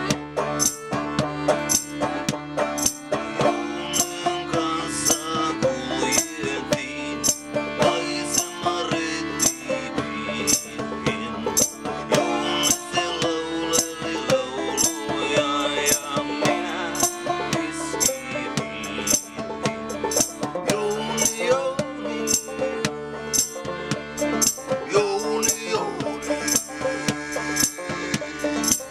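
Banjo-driven folk-punk song played live: plucked banjo chords over a steady rattling percussion beat, about one hit a second.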